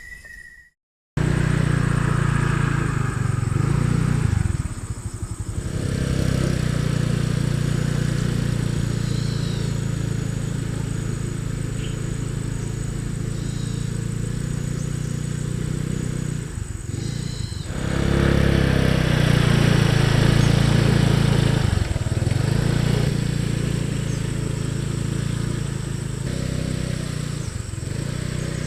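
Vehicle engine running steadily, with a few brief dips in level.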